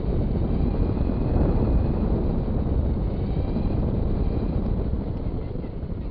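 Traxxas Stampede 2WD RC truck driving, heard through its onboard FPV camera: a steady rumble of wheels and chassis over the ground, with faint high motor whine now and then.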